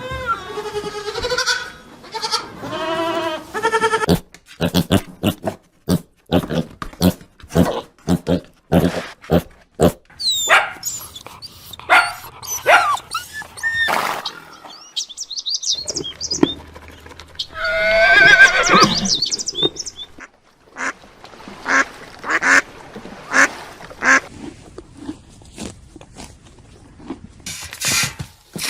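A run of different animal calls: drawn-out pitched cries near the start and again in the middle, with many short sharp clicks and some gliding tones between them.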